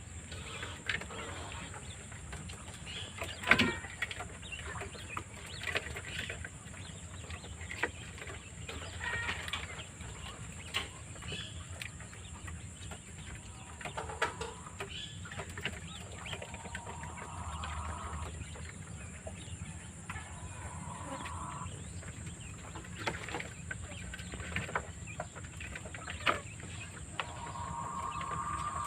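Wild quail clucking and chirping, with scattered sharp taps, and a few pulsed buzzing trills about 17, 21 and 28 seconds in.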